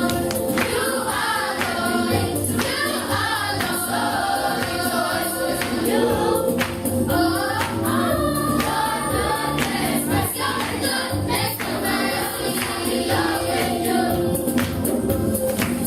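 Church choir singing gospel music, with a steady beat of hand percussion.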